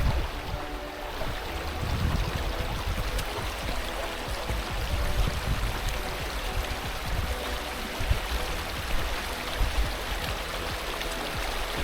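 River water rushing over rocks at rapids, a steady hiss, with irregular low rumbling underneath.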